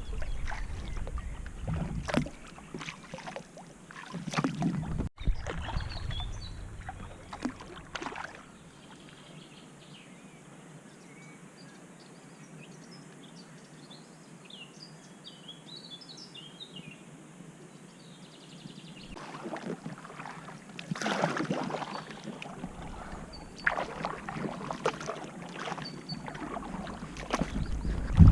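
Small rowboat being rowed: oars splashing and knocking, in bursts with a quieter stretch in the middle where birds chirp.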